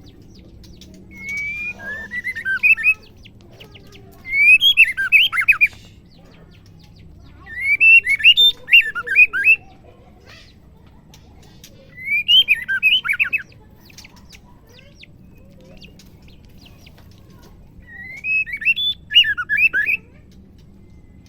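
Female white-rumped shama calling: five short phrases of quick sliding notes, each about one to two seconds long, repeated every few seconds with pauses between.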